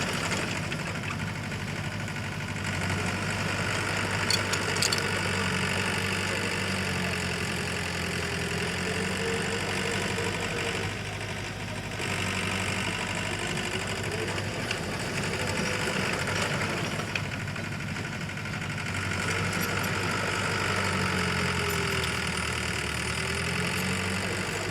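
Diesel engine of heavy earthmoving machinery running under load, its pitch rising and falling twice as the revs change, with a few sharp clanks about four seconds in.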